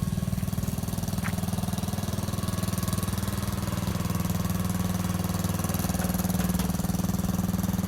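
Lawn tractor's small engine running steadily, with a haze of higher noise over it.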